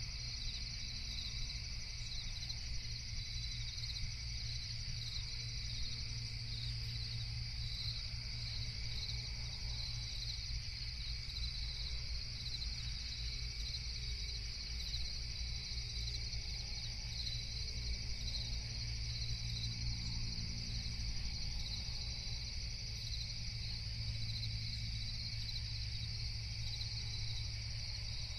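A continuous night chorus of chirping crickets, a dense, finely pulsing high trill, over a steady low hum.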